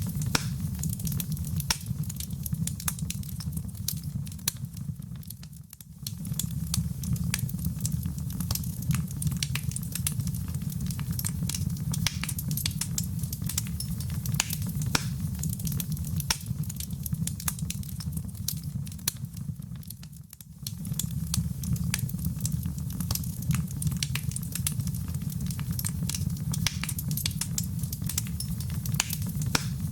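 Wood fire in a fireplace burning with a steady low rumble and frequent sharp crackles and pops. The sound briefly fades down and back up twice.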